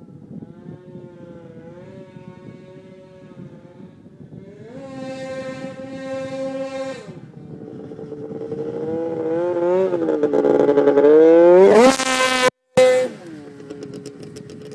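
2003 Polaris RMK 700 snowmobile's two-stroke twin running through an SLP exhaust with the muffler removed: idling, a short throttle blip about five seconds in, then a longer rev that climbs steeply to its loudest near the end before dropping back to idle.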